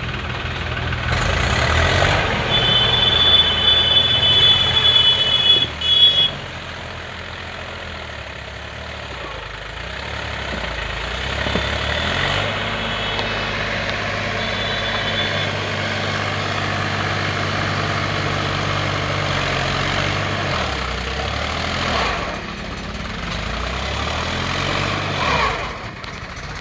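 Tractor engine running, louder and working harder for the first six seconds, with a high steady tone over it, then settling to a steadier run.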